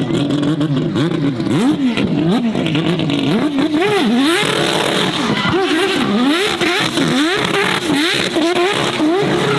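A high-performance car engine revved hard up and down again and again while the car drifts, its pitch rising and falling about twice a second in the second half.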